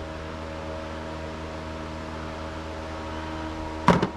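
Steady mechanical hum with several fixed tones, like a fan running, and one short sharp knock near the end.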